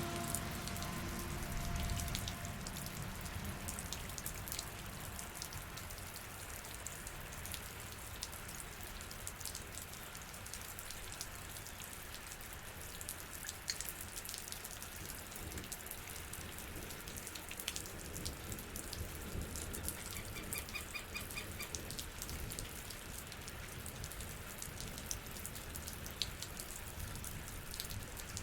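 Rain falling steadily, an even patter with individual drops ticking out above it. About two-thirds of the way through, a short, rapid run of high chirps sounds over the rain.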